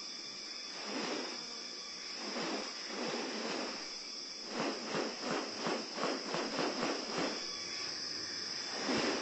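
Steady high-pitched insect drone of rainforest ambience. A little after halfway through comes a run of about ten quick, evenly spaced pulsing calls from an unseen animal.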